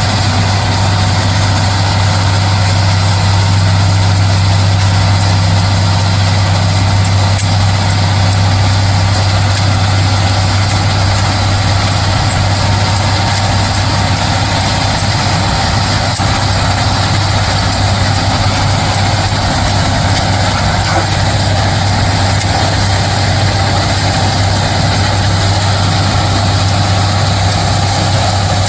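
Loram SBC-20 rail ballast cleaner running steadily while working: a loud, constant diesel engine sound with a strong low hum and machinery noise over it.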